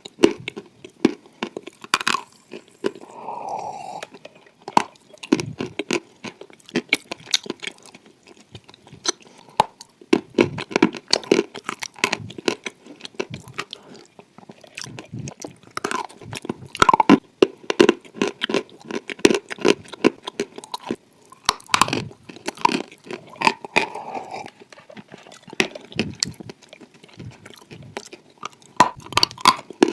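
Close-up mouth sounds of someone biting and chewing clay: dense crunching and crackling clicks in irregular runs, with a couple of quieter pauses.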